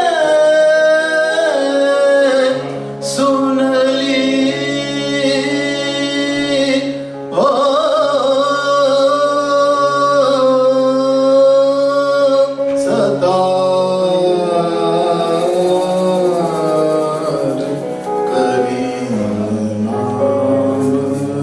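Raga-based singing with long held notes over steady sustained accompanying notes, which move to a new chord about every five or six seconds.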